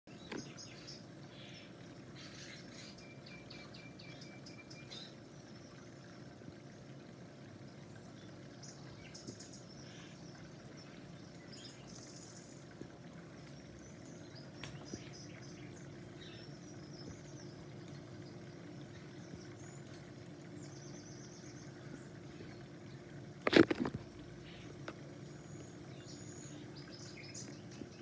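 Scattered short bird chirps and calls over a steady low hum, with one sudden loud knock about three-quarters of the way through.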